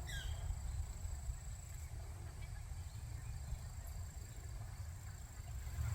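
Outdoor nature ambience: a steady high-pitched insect drone over a low rumble, with a short falling bird chirp right at the start.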